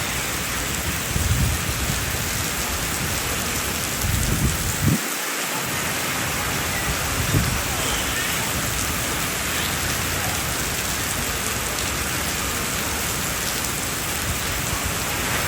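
Heavy rain falling steadily, a constant even hiss. A few brief low rumbling bumps come about one, four to five and seven seconds in.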